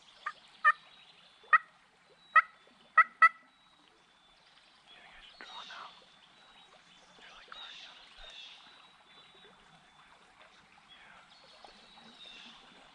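Turkey calls: six short, sharp notes in quick, uneven succession in the first three seconds or so, then fainter calling later on, with small birds singing faintly behind.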